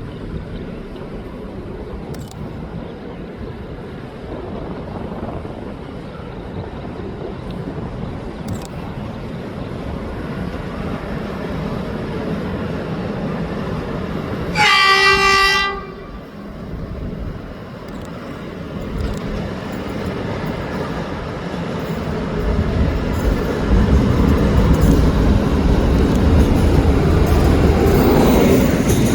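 Alsthom diesel-electric locomotive hauling a container freight train and approaching, its engine rumble slowly growing louder. About halfway through it gives one horn blast of about a second. In the last several seconds the engine and wheel noise grow much louder as the train draws close.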